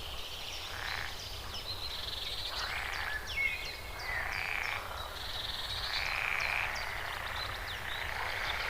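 A chorus of animal calls: many short, high chirps and quick downward-sweeping notes, with longer harsh calls coming about once a second.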